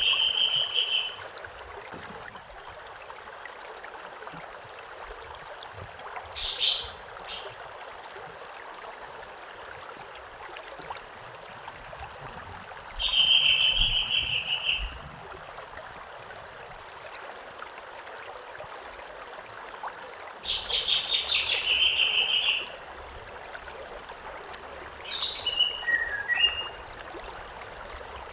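Stream water running steadily, with a small songbird singing: three rapid trills of one to two seconds each, at the start, about halfway and about two-thirds through, and short phrases of a few quick notes between them.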